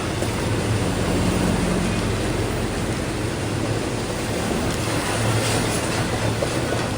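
Norfolk Southern freight train rolling past: a steady rumble of cars on the rails with a low hum underneath.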